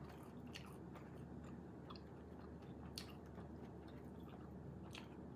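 Soft chewing and mouth sounds of someone eating chicken wings, with a few short wet clicks, the sharpest about three seconds in.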